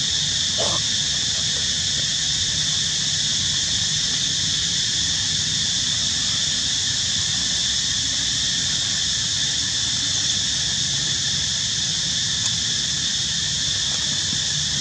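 Steady high-pitched drone of an insect chorus, unbroken and even in level, over a low rumble of wind.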